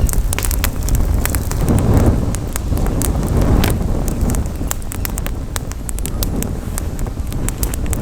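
Campfire burning and crackling, with many quick sharp pops and snaps, over a steady low rumble of wind buffeting the microphone.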